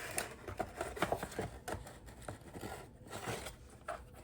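Scattered light clicks and taps of hard plastic side-mirror parts being handled and fitted together.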